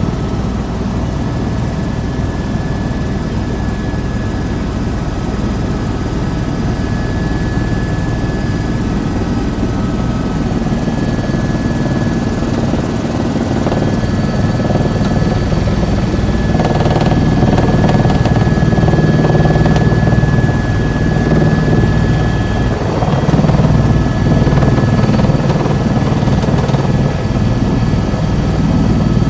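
Helicopter turbine and rotor running steadily in flight: a constant low drone with a thin steady whine over it, growing a little louder in the second half.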